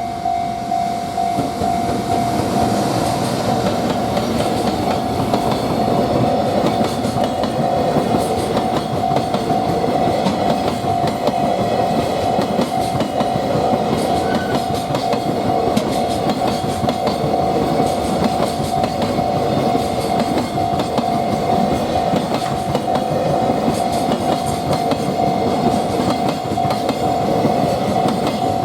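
Freight train running past a level crossing, its wheels clattering steadily over the rail joints, with the crossing's warning bell ringing as a steady repeating tone.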